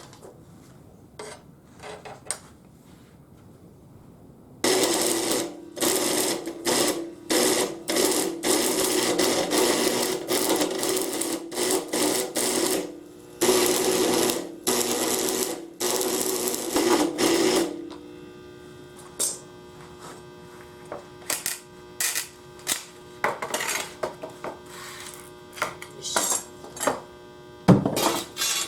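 A small power tool with a motor runs in repeated short bursts for about thirteen seconds, starting a few seconds in. It then stops, leaving scattered clicks and knocks over a steady hum.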